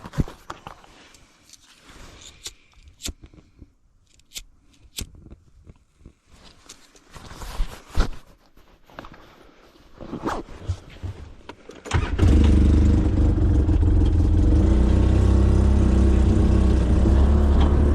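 Scattered clicks and knocks, then about twelve seconds in a vehicle engine starts and runs steadily at idle.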